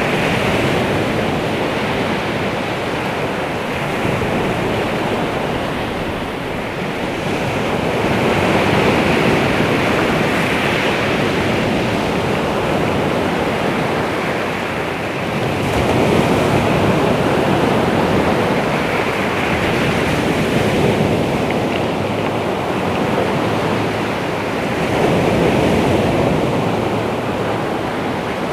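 Baltic Sea waves washing onto the shore, a steady surf that swells and ebbs every several seconds.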